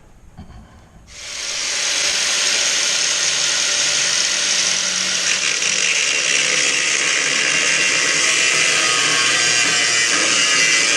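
Angle grinder with a cut-off wheel cutting through a piece of steel, starting about a second in and running steadily as it cuts, with a loud high hiss.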